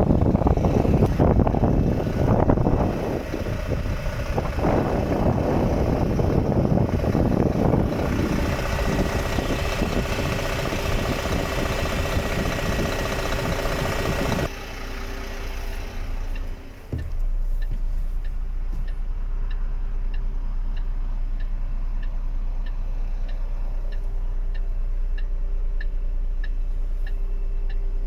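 Renault D 270 truck's diesel engine running. About halfway through the sound changes abruptly and then settles into a steady low idle hum, with a faint regular ticking over it.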